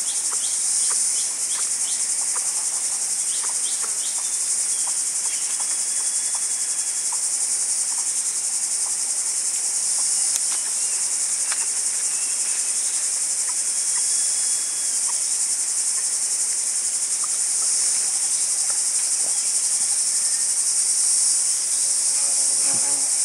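Steady, high-pitched chorus of insects, with scattered faint clicks and a few short faint chirps beneath it.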